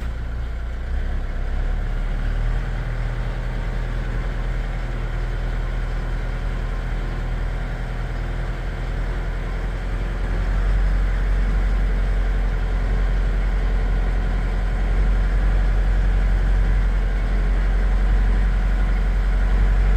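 Skidder's diesel engine running steadily, getting somewhat louder about halfway through.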